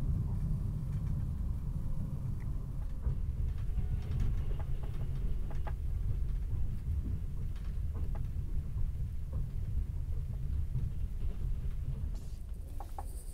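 Passenger sleeping car (Tver-built model 61-4179) running on the rails, heard from inside the compartment: a steady low rumble with occasional faint clicks and rattles.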